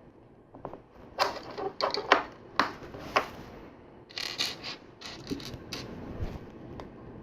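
Plastic LEGO pieces clicking and rattling as they are handled and pressed together: a run of sharp clicks, with a denser cluster of rattling clicks about four seconds in.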